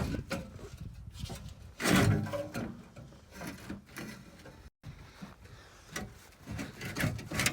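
Irregular knocks, clunks and scrapes of hands-on work, with a louder clatter about two seconds in and a brief break in the sound partway through.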